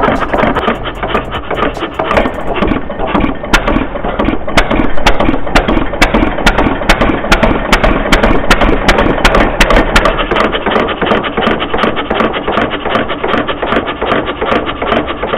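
Miniature antique-style 6cc gasoline model engine running steadily, a dense, rapid clatter of clicks and knocks. It stops abruptly at the end.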